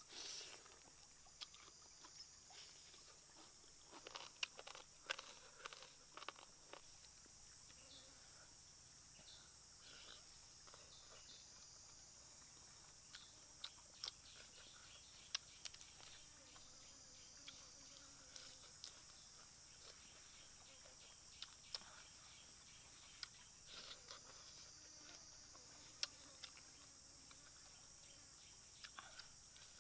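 Faint bites and chewing: scattered soft crunches and clicks from eating chicken off the bone and biting a raw cucumber, over a steady high drone of insects.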